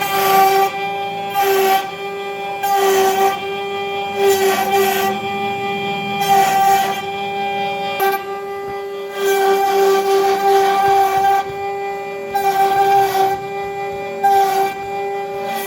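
CNC router spindle running with a steady high whine, while the bit carving wood adds irregular bursts of rasping cutting noise about once a second.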